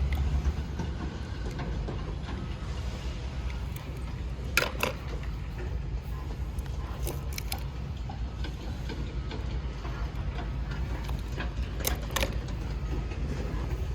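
Steady low background rumble with a few sharp clicks or knocks, a pair about four and a half seconds in and another pair around twelve seconds.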